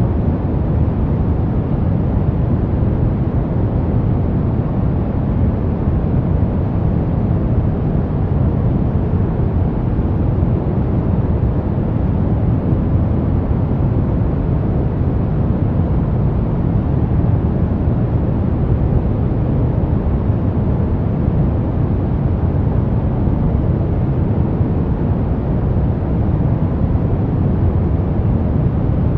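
Steady brown noise: a constant deep rumbling hiss, strongest in the bass and falling off toward the treble, unchanging throughout.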